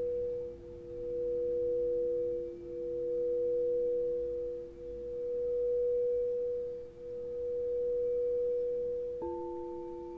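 Singing bowls ringing in two steady, pure sustained tones, one above the other, swelling and fading about every two seconds. Near the end another bowl is struck, adding a higher tone.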